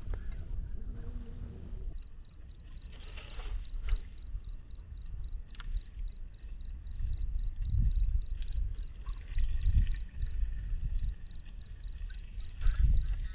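A calling animal giving a rapid series of short, high chirps, about four a second, that pauses briefly near the end and then resumes. Under it runs a low rumble with a few dull thumps.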